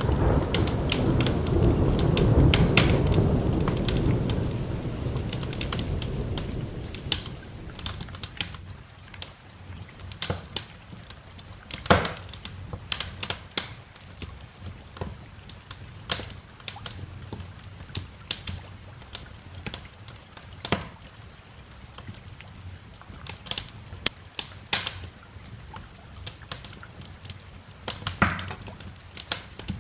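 Thunder rumbling low, fading away over the first six or seven seconds. Throughout, a crackling wood fire gives off irregular sharp pops and snaps.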